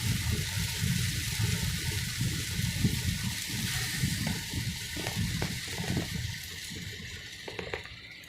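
Heavy rain hissing, heard from inside a moving car with the window open, over a restless low rumble. It all dies down in the last second or so.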